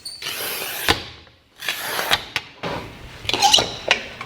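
Work-site handling noises: scraping, rubbing and several sharp knocks and clicks of tools and materials being moved. There is no steady motor running.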